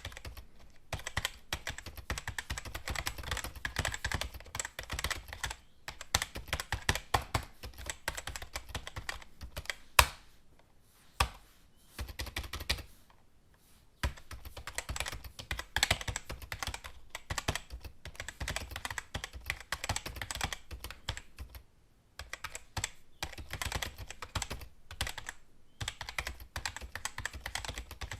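Typing on a computer keyboard: fast runs of key clicks broken by short pauses. About ten seconds in comes a single sharper, louder keystroke, followed by a few seconds of only occasional strokes before the steady typing resumes.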